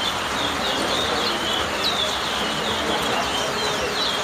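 Caged towa-towa finch singing quick phrases of short, clear, downward-sweeping whistled notes, repeated again and again, over a steady background hubbub.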